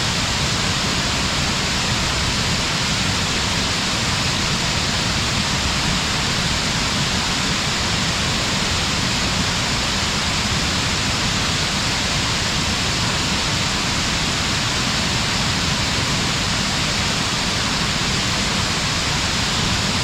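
Waterfall heard from some way off: a steady, unbroken rush of falling water.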